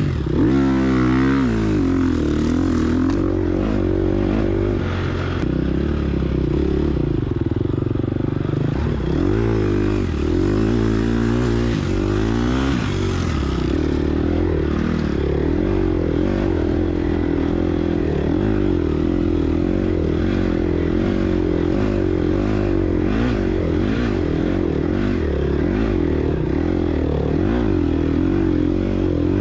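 2022 Gas Gas EX250F's single-cylinder four-stroke engine being ridden hard, its revs rising and falling constantly with throttle and gear changes.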